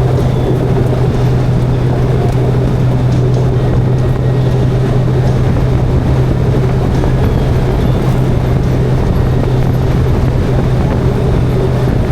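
Motorcycle engine running steadily at a constant cruising speed, a low even drone under wind and road noise.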